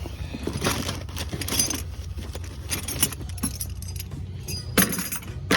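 Small metal items jangling and clinking in irregular bursts, over a steady low hum.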